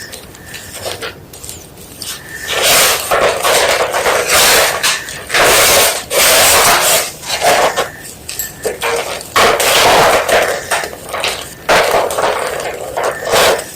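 Block of white gym chalk being crushed, a run of dry crunching and crumbling bursts that grows loud about two and a half seconds in.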